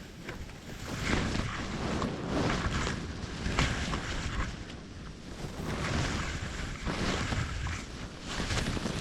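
Gusty wind buffeting the camera microphone, rising and falling in swells, over the rush of flowing river water.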